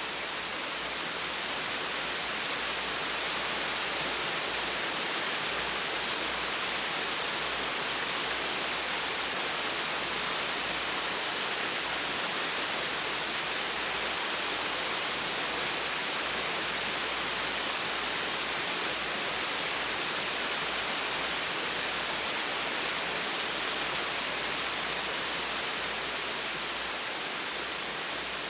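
Small waterfall running steadily: an even, unbroken rush of falling water, bright and hissy.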